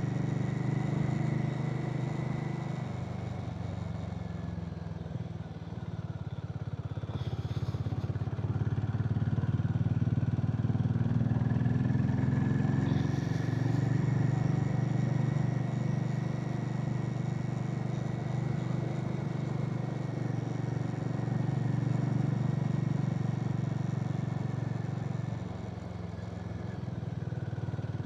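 Harley-Davidson X440's single-cylinder engine running on the move. Its note eases off about five seconds in, picks up again from about nine seconds, and drops back near the end.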